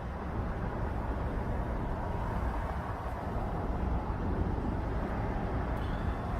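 Steady low rumbling noise of a car, heard from inside the vehicle.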